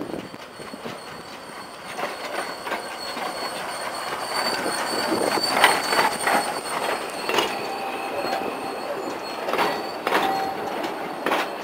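Narrow-gauge steam train's carriages rolling past: wheels clacking over rail joints several times, with a thin high-pitched squeal from the wheels on the rails.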